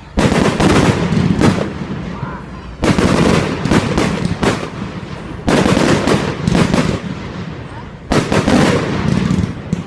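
Fireworks going off in four loud bursts about every two and a half seconds, each bang followed by rapid crackling that dies away.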